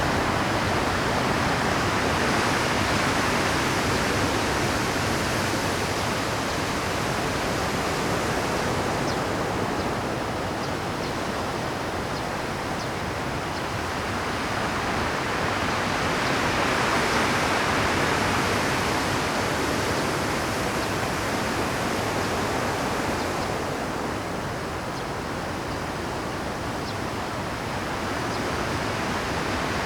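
Rough high-tide Pacific surf breaking on shore rocks in a continuous wash, swelling louder as waves surge in near the start and again a little past halfway, and easing between.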